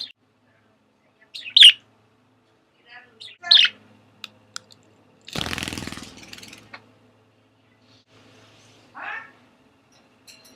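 Budgerigars chirping: a few short, sharp, high calls spaced a second or more apart, the two early ones the loudest.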